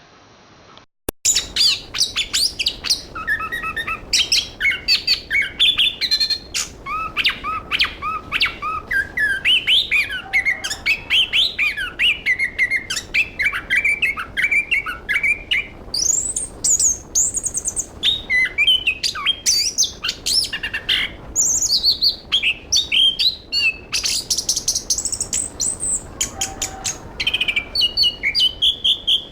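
Chestnut-capped thrush (anis kembang) singing a long, fast, varied song of chirps, trills and gliding whistled notes, phrase after phrase without pause. The song starts abruptly about a second in, after a brief quiet moment.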